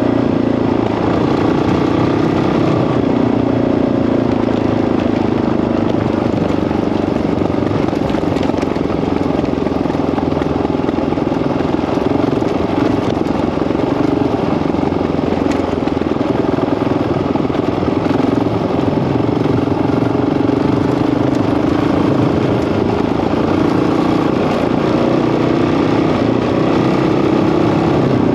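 Single-cylinder engine of a Honda CRF dirt bike running steadily under way, its pitch wavering a little with the throttle.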